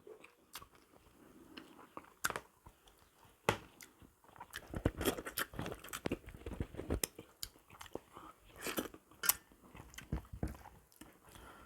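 A person eating close to the microphone: irregular bites, crunches and wet mouth clicks while chewing food.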